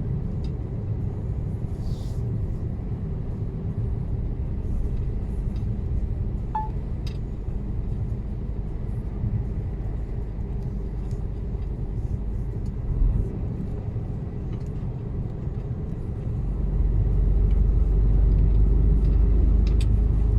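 Mercedes-Benz Actros truck heard from inside the cab while driving: a steady low engine and road rumble that grows louder about three-quarters of the way through.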